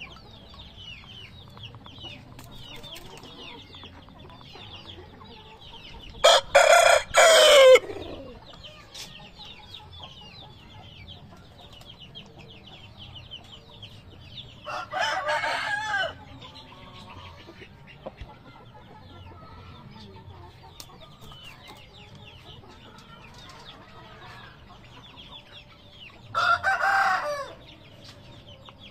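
Aseel roosters crowing three times, each crow about a second and a half long, the first the loudest, over a steady background of faint high chirping.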